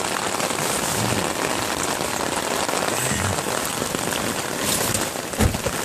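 Heavy rain drumming on an umbrella overhead and on the car beside it, a dense, steady patter. A single dull thump comes about five and a half seconds in.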